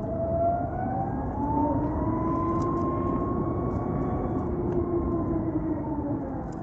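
Ather 450X electric scooter's motor whining as it picks up speed, the whine rising in pitch over the first few seconds, holding, then easing down a little near the end, over a steady rush of wind and road noise.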